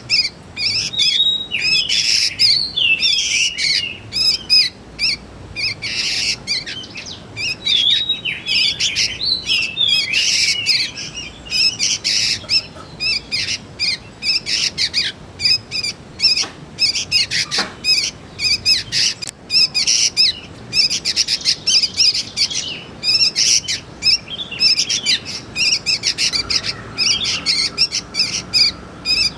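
Juvenile sooty-headed bulbuls (kutilang) calling: a dense, continuous run of short, high chirps.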